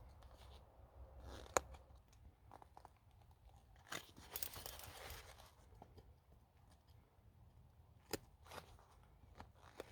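A few sharp knocks at close range, with a brief crunching scrape about four seconds in that lasts just over a second.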